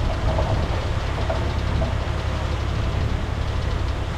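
A bulldozer's diesel engine running steadily.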